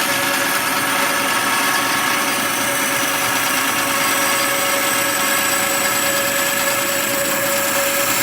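Bandsaw running steadily: a constant motor hum with several steady tones over the blade's whir.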